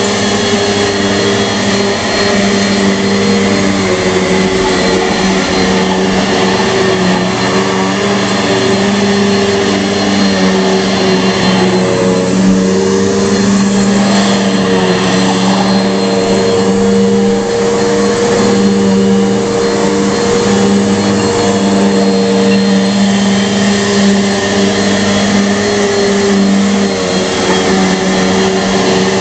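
Bissell PowerForce Bagless vacuum cleaner running steadily, its motor drone shifting slightly in pitch now and then.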